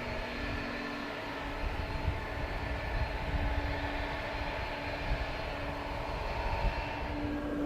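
Jet airliner engine noise: a steady whine over a low rumble that grows stronger about a second and a half in.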